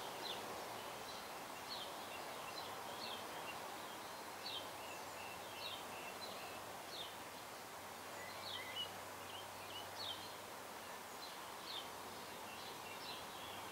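Birds chirping in short, scattered calls over a steady background hiss of outdoor ambience.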